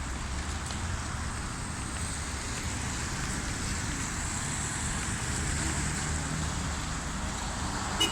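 Steady hiss of rain and traffic on wet city streets, with a low rumble of passing vehicles. A short high beep sounds near the end.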